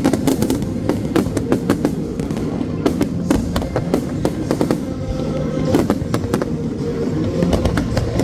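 Fireworks going off in a rapid series of bangs and crackles, with music playing underneath.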